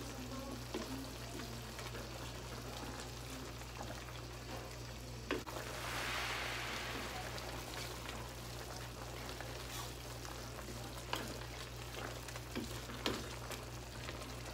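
Chicken and green beans sizzling in a wok as a wooden spatula stirs them, with scattered clacks of the spatula against the pan. The sizzle swells for about a second around six seconds in.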